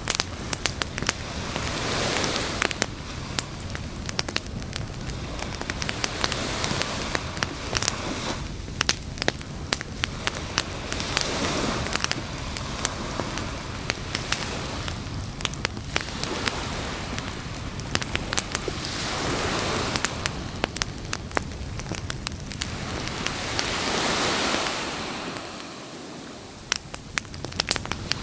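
Wood campfire crackling with frequent sharp pops, over surf that swells and fades every few seconds as waves wash onto the beach.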